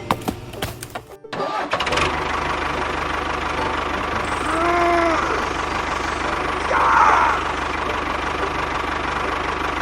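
A motor engine starts about a second in and then runs steadily with an even low pulse, after a few light clicks.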